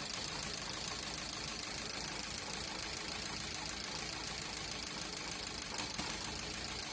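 Maruti Swift Dzire engine idling on CNG with a misfire, running with a jerk, over a steady, rapid ticking from the CNG injectors. The misfire is traced to a failed CNG injector on cylinder 2.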